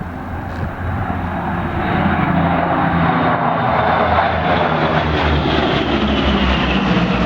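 Lockheed P-38 Lightning's twin Allison V-12 engines running in flight, a steady drone that grows louder over the first two seconds and then holds.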